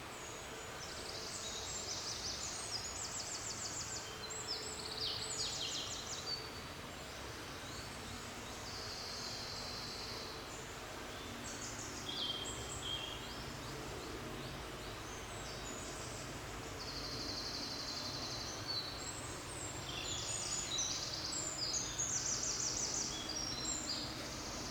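Forest songbirds singing: high, fast-trilled phrases come every few seconds, with the busiest stretches near the start and near the end, over a steady low background noise.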